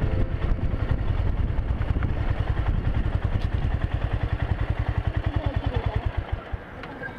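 Motorcycle engine running with a rapid, even thumping beat that slows and dies away about six and a half seconds in, as when the engine is switched off.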